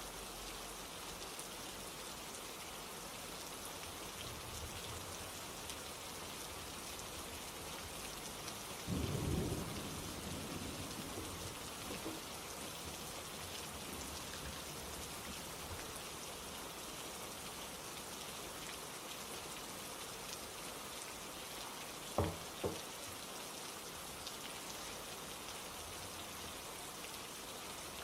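Steady rain falling, with a short low rumble of thunder about a third of the way in that fades over a few seconds. Two sharp knocks in quick succession come later.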